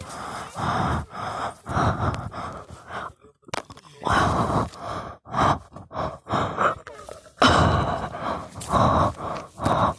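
Heavy, gasping breaths close to the microphone, coming in irregular bursts: a child out of breath from climbing a tree.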